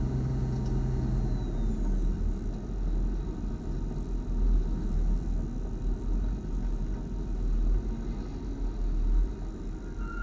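BMW club race car running at low revs, heard from on board as a steady low rumble, with a low engine tone that fades out about a second and a half in and no clear revving.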